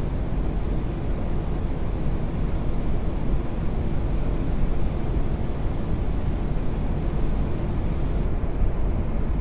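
Steady low rumble of airflow and engines inside the Airbus A380 cockpit on final approach, with the gear down and flaps at full.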